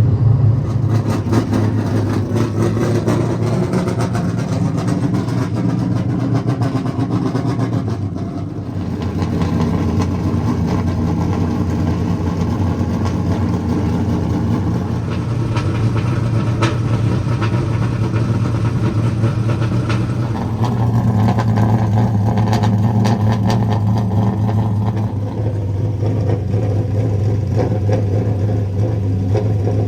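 Stock car V8 engines running steadily, with a brief dip in level about eight seconds in and a louder, slightly changed note from about twenty seconds in.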